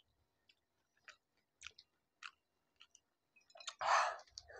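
A few faint, crisp clicks, then about four seconds in a loud crunch as a whole pani puri (golgappa) shell is bitten into and chewed.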